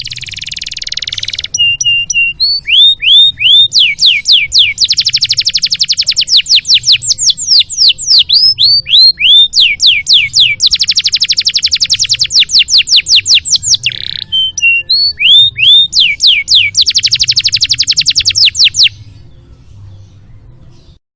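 Domestic canary singing a long, varied song of rapid trills and runs of repeated down-slurred whistles, in phrases broken by short pauses, stopping near the end.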